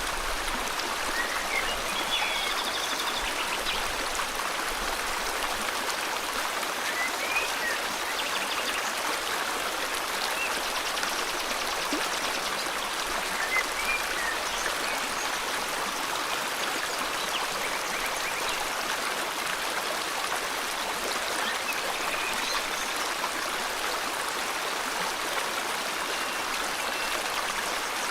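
River water flowing steadily, with a few faint, short bird chirps now and then.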